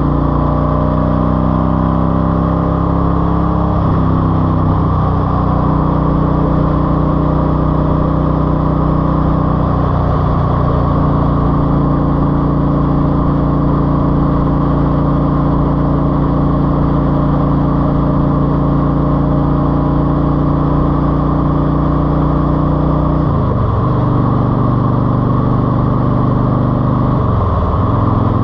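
Eluder GT's engine running through a TAB exhaust with 2.5-inch baffles, its pitch climbing over the first few seconds, then holding steady, and dropping briefly twice near the end.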